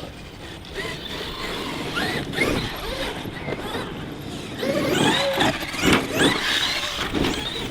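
Brushless electric motors of large RC monster trucks whining up and down in pitch as the throttle is worked, strongest in the latter half.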